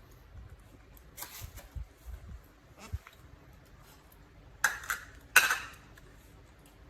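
A plate clattering on a hard floor: a few soft knocks, then three sharp clinks in the second half, the last and loudest ringing briefly.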